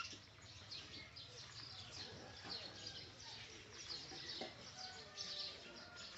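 Small birds chirping in the background, a steady run of short, high, quick chirps, with a few fainter, lower calls among them.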